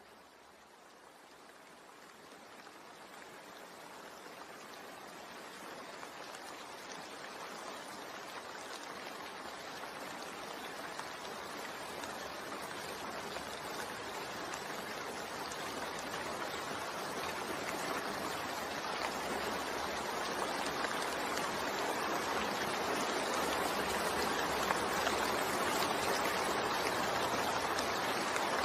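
Steady rain, an even dense hiss of falling water, fading in gradually from quiet and growing steadily louder.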